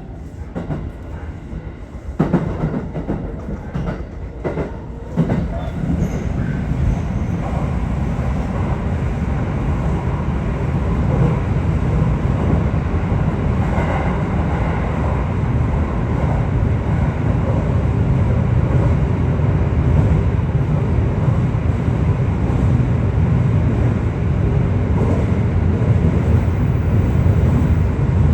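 Aichi Loop Railway 2000 series electric train running, heard from inside the car, with a low rumble that builds steadily as it picks up speed. A few sharp clacks from the wheels come in the first five seconds.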